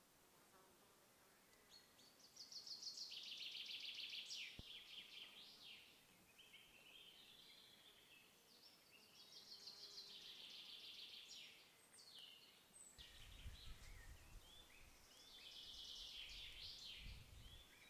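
A songbird faintly singing the same rapid trilling phrase three times, a few seconds apart. A low rumble comes in under the last phrase near the end.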